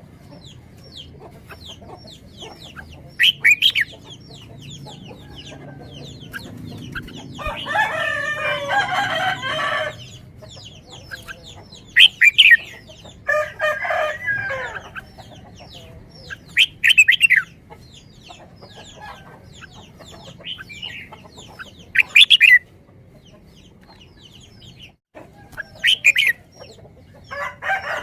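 Birds calling: loud short calls every few seconds over many faint chirps, with two longer drawn-out calls about eight and thirteen seconds in.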